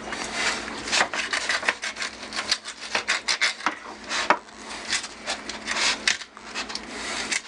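Kitchen knife sawing through a raw chicken's ribs and backbone against a cutting board: a quick, irregular run of rasping strokes and sharp cracks as the back is cut away from the breast.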